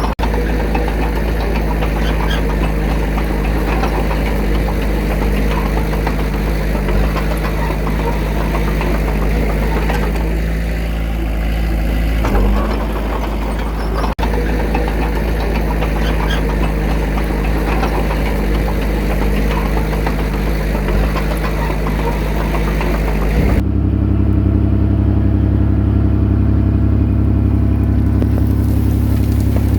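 A heavy machine's diesel engine runs steadily. About 23 seconds in, the sound switches abruptly to a deeper, louder engine hum.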